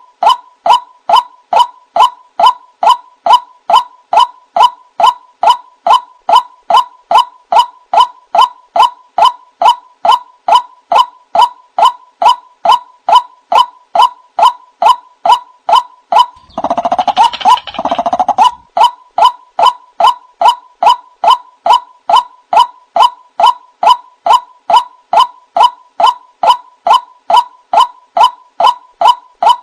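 White-breasted waterhen (ruak-ruak) calling from a lure recording: a steady, monotonous run of short notes at one pitch, about two a second. About halfway through, a couple of seconds of harsher, croaking calls break in.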